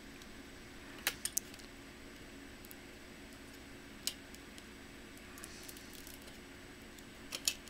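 Sharp small clicks and taps of laptop parts being handled and pried apart while the fan and heatsink assembly is removed: three close together about a second in, one a few seconds later, and two near the end, over a faint steady hum.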